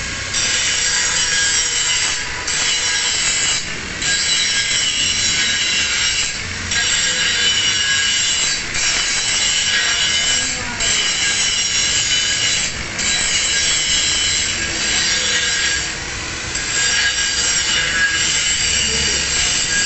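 Angle grinder grinding a single bevel on the edge of a metal plate. A steady, loud grinding whine, with short dips every two seconds or so as the disc is eased off the metal between passes.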